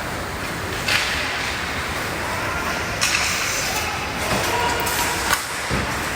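Hockey game play: a steady rink din with sudden scrapes and knocks of sticks, skates and puck, sharpest about a second in, about three seconds in and just after five seconds.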